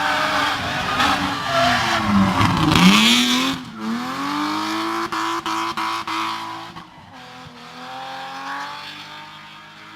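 Competition car's engine revving hard through a corner, its note dipping and climbing, with a burst of tyre squeal about three seconds in. The engine then pulls away with a quick series of sharp breaks in its note around five to six seconds in, and fades as the car moves off.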